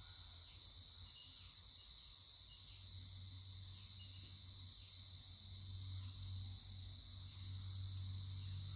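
Steady high-pitched insect chorus, crickets or cicadas, droning without a break.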